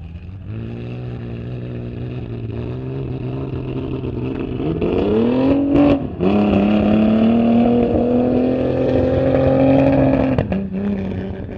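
Off-road rally truck's engine running at low revs, then revving up about five seconds in, dipping briefly, and held at high revs with the pitch slowly climbing before it drops back down near the end.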